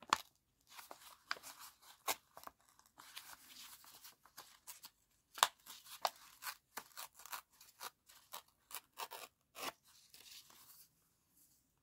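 Close-up paper handling: rustling and scratchy noises with many sharp ticks and taps, stopping about a second before the end.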